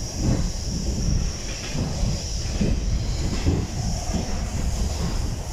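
Running noise of a moving passenger train heard from inside the carriage: a low rumble with uneven knocks and a steady hiss.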